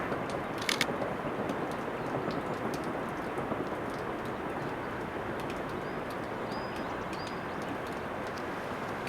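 Steady outdoor background noise with a small bird's short, high chirps, three in quick succession about six to seven seconds in. A couple of sharp clicks sound about a second in.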